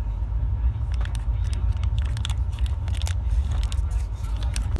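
Steady low rumble of a moving train coach, with scattered sharp clicks and rattles over it.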